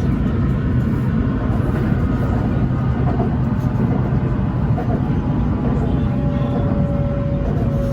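BTS Skytrain (Silom Line) electric train running: a steady low rumble with faint whining tones. About six seconds in, a thin whine starts and slowly falls in pitch.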